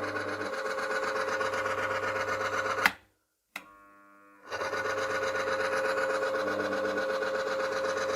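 Electric motor of a friction test bench running steadily with a steady hum, turning a roller pressed against a hardened steel ball under lever load, with no seizing, the metal treated with Mecarun P18. About three seconds in it cuts off with a click, a brief fainter hum follows, and about a second and a half later the same running sound returns.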